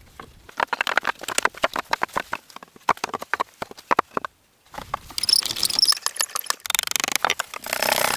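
Rapid, irregular clattering taps and scraping of hand tools working earth and stone, with a brief pause a little past four seconds in and a harsher scraping near the end.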